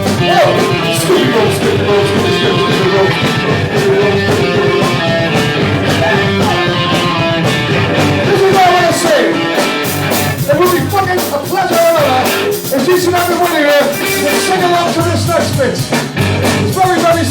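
Live band playing a rock number: guitar, bass and drums with singing.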